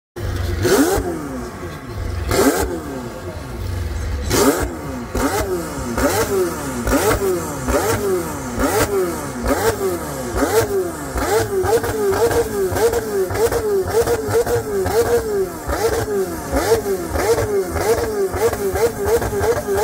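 McLaren supercar's twin-turbo V8 being revved while parked: repeated sharp throttle blips that climb and fall back. They come about every two seconds at first, then quicken to a fast, even run of blips.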